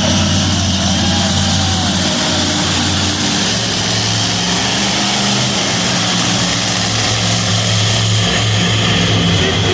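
Monster truck engine running loudly at a steady, slightly uneven idle, with a high whine above the low rumble.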